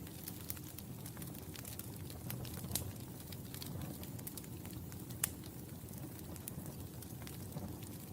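Wood fire crackling in a fireplace: a steady low rumble of flames under frequent irregular sharp pops, two of them louder, a third of the way in and just past the middle.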